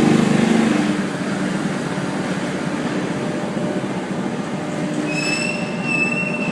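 Low, steady vehicle rumble, joined about five seconds in by a steady high-pitched squeal.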